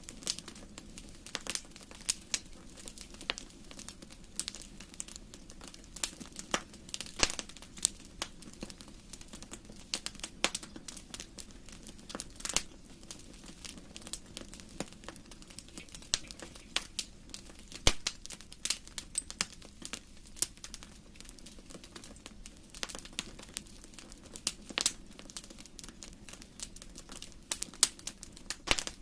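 Fire in a fireplace crackling, with irregular sharp pops and snaps of varying loudness over a faint steady hiss.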